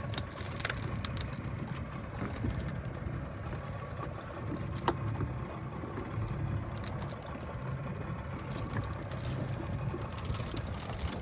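Boat engine running steadily, with scattered light knocks and splashes over it.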